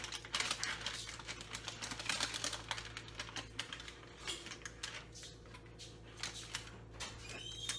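Many small, irregular clicks and crinkles as cooked zucchini is handled out of a plastic cooking bag onto a plate, over a faint steady hum.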